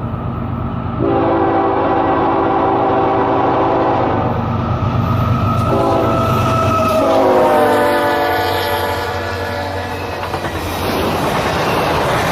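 Train horn sounding a long blast, a short blast and another long blast; the pitch of the last one drops as the locomotive passes. The rolling rush and clatter of the train going by follows near the end.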